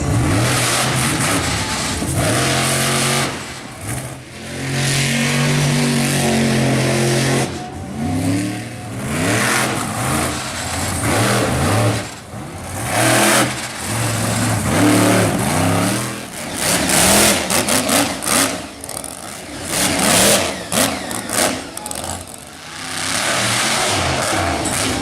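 Monster truck engine revving hard through a run, the throttle opened and closed again and again so the pitch rises and falls, with a steadier held stretch about five seconds in and rapid repeated blips in the last third.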